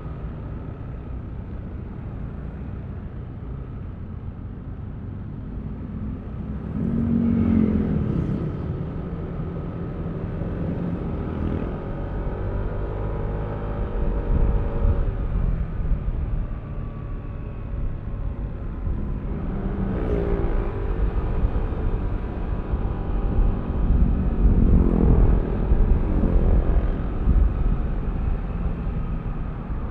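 Yamaha Aerox V3 scooter's 155cc single-cylinder engine running under way, with road and wind rumble. The engine note rises and swells on acceleration about seven seconds in, again around twenty seconds, and for a longer pull around twenty-five seconds in.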